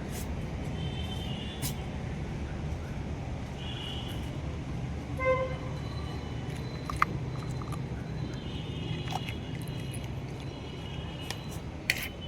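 Steady low rumble with a short horn-like toot about five seconds in, faint high tones now and then, and scattered light clicks.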